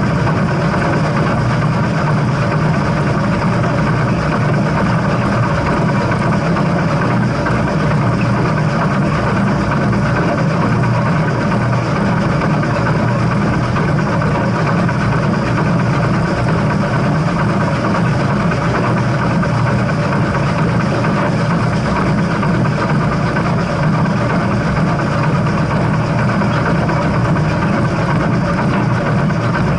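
Steam train running, a loud steady rumble and rattle with no breaks.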